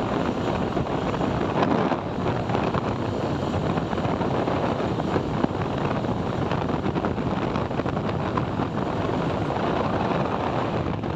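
Steady wind rush on the microphone of a moving motorbike, mixed with road and traffic noise.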